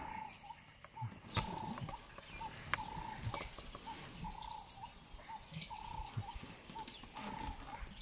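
A bird repeating one short, single-pitched note over and over, about once a second. Scattered short snaps and rustles come from elephants tearing up grass as they graze.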